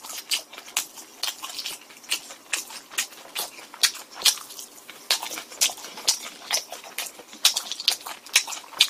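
Close-miked chewing of crispy boneless honey fried chicken: irregular crunching clicks, a few a second.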